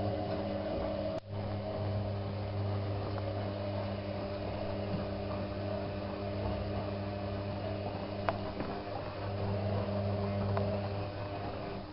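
Bauknecht WAK7751 washing machine running: its motor and drum give a steady humming whir, which dips briefly about a second in, and there is a single click later on. The owner says the drum bearing is slowly wearing out.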